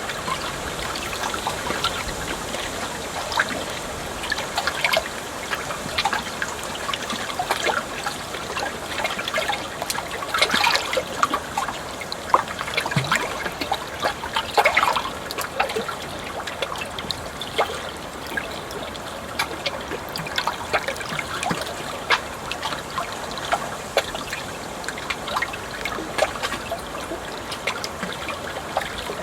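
Shallow flowing water trickling and babbling steadily, with many small irregular splashes and gurgles.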